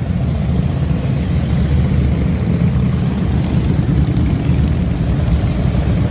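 Several motorcycle engines running as they ride past, a steady low rumble.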